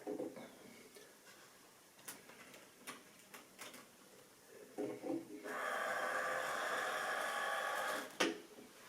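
Model railway train running on the track: a steady mechanical whir of motor and wheels starts about five and a half seconds in, after a run of small clicks and knocks. A sharp click interrupts it near the end.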